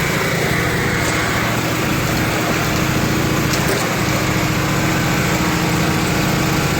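Small gasoline engines running steadily at a fast idle: a Honda EG3500X generator just after its cold start, with a Toro TimeCutter engine warming up alongside.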